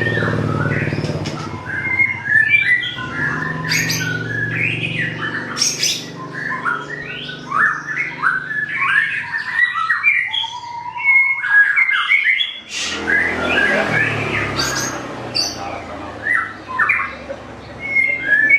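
Male white-rumped shama (murai batu) singing a long, varied song of quick whistles and harsh chattering phrases. A low background hum sits under the first few seconds, and a short rushing noise comes about 13 seconds in.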